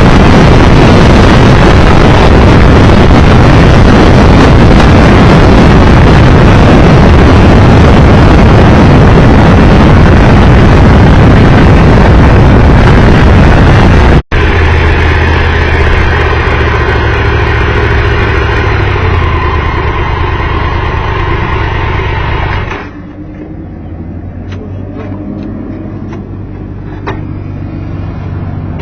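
Wind and road noise from a motorcycle ridden at speed. After a sudden cut, the Triumph Tiger Explorer 1200's three-cylinder engine hums low and steady, then stops about eight seconds later, leaving quieter surroundings with a few light clicks.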